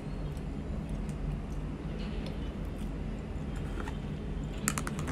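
A person chewing a bite of fried chicken: faint mouth clicks and crunches over a steady low hum, with a short run of crisp clicks near the end.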